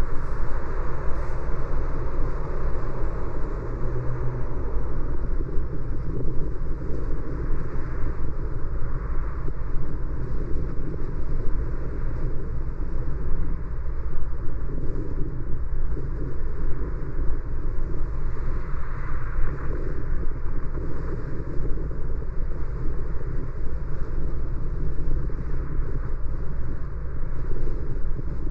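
Road noise of a car driving, heard through a dashcam: a steady low rumble of tyres and engine.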